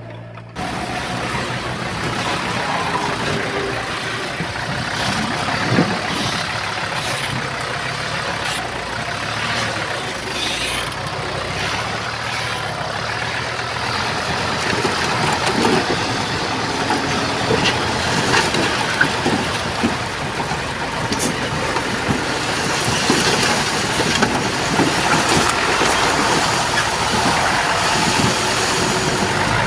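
Heavy diesel earthmoving machinery running steadily, with scattered clanks and knocks.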